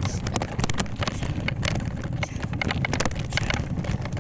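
Sound of a bicycle in motion: a steady low rumble of wind buffeting the microphone, with frequent irregular clicks and rattles.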